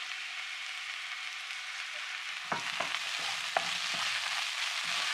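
Ginger, spring onion whites and garlic sizzling in hot oil in a pan. The sizzle gets louder about halfway in, with a few knocks and scrapes from stirring.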